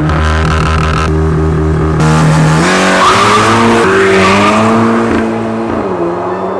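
Volkswagen Golf R's turbocharged four-cylinder engine launching hard from a standstill. The note is held at high revs for about two and a half seconds, then climbs through two quick upshifts and fades as the car pulls away.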